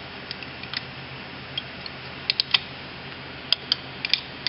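Scattered light metallic clicks and ticks of a feeler gauge and small hand tools being worked at the valve rocker of a small ATV engine, some in quick pairs, over a faint steady hum.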